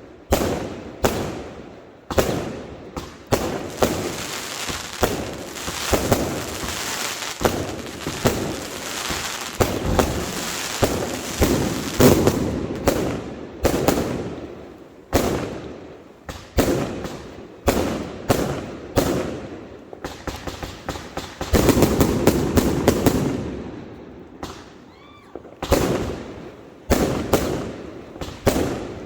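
Fireworks going off in quick succession: repeated sharp bangs, with two long stretches of dense crackling, one through the first half and another a little after the middle.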